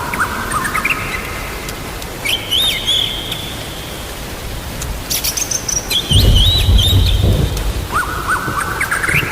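A songbird sings short whistled phrases with quick up-and-down glides over steady rain. About six seconds in, a low rumble of thunder comes in and lasts for a second or two.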